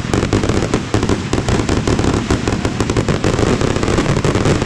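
Fireworks going off in a dense, unbroken barrage: rapid bangs and crackling one over another, with no pause.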